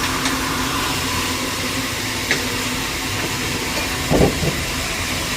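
Sawmill machinery running with a steady hum and hiss, with a few sharp clicks and a heavier double knock about four seconds in.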